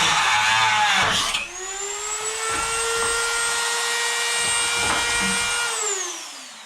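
Electric grinder cutting or grinding sheet metal, its pitch wavering under load, then running free at a steady high whine from about a second in. Near the end it is switched off and the whine falls as it spins down.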